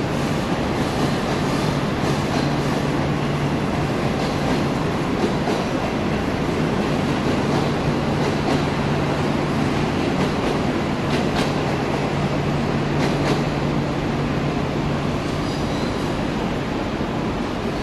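Passenger train rolling past on the track: a steady rumble of wheels and running gear with a few sharp clicks over rail joints and a steady low hum that stops near the end.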